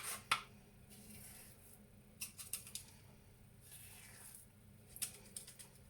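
Spoon scraping and tapping while a thick, sticky fat-ball mixture is spooned into a yoghurt pot: faint clicks in small clusters, just after the start, about two seconds in and again about five seconds in.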